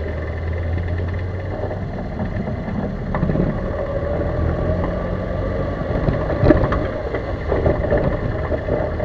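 Chevrolet Corsa on the move: engine hum with scattered knocks and rattles from the car, the sharpest about six and a half seconds in.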